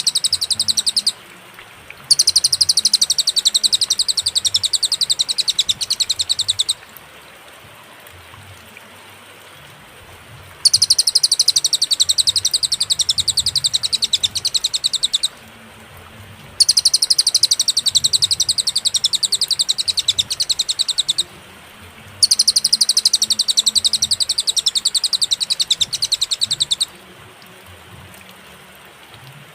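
Cililin bird singing in bouts of fast, high, chattering trills. After a short bout at the start come four longer bouts of about four to five seconds each, separated by pauses of one to four seconds.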